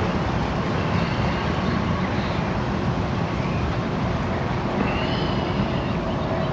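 Steady rumble of a road vehicle in motion: engine and road noise, even in level throughout.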